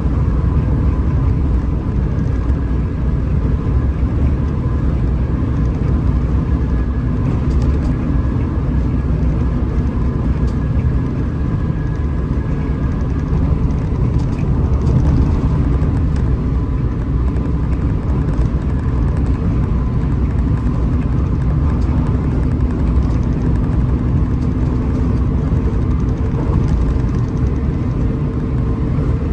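Hino RM 280 diesel engine running steadily under way at cruising speed, a continuous deep rumble with road noise and a faint steady whine.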